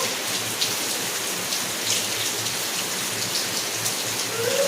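Steady rain falling, an even hiss with individual drops ticking on nearby surfaces.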